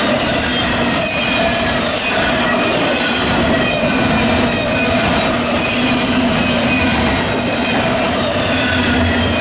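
Freight train rolling steadily past, steel wheels running on the rails with a steady wheel squeal over the rumble of the cars.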